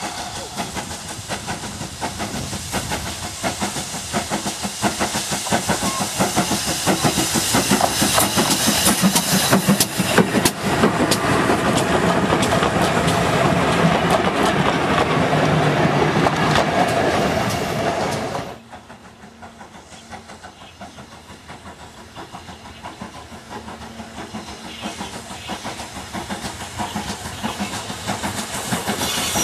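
Train of railway carriages passing close by, wheels clattering rhythmically over the rail joints, louder through the middle and stopping abruptly about two-thirds of the way in. After that a quieter steam locomotive approaching from a distance slowly grows louder.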